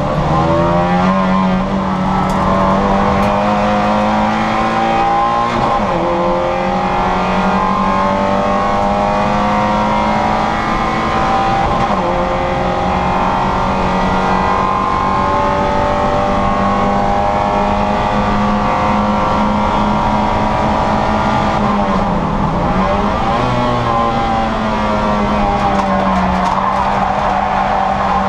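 Citroën Saxo VTR's four-cylinder engine held at high revs under racing load, heard from inside the car. The pitch drops briefly at gear changes about five seconds in and again about twenty-two seconds in, then climbs again.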